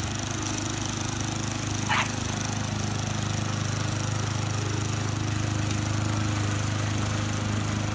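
Steady motor hum with an even hiss over it, and one short high squeak about two seconds in.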